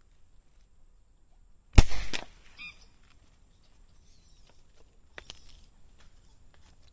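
A single shotgun blast about two seconds in, ringing out, followed right after by a short honking bird call. A few quieter sharp clicks come near the middle and end.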